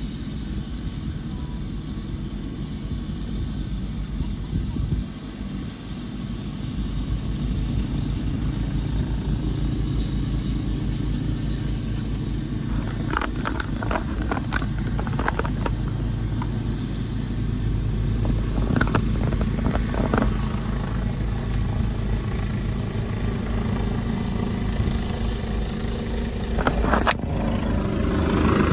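Helicopter running steadily, its engine and rotor giving a low, even rumble that grows gradually louder. A few sharp clicks or knocks come through in the second half.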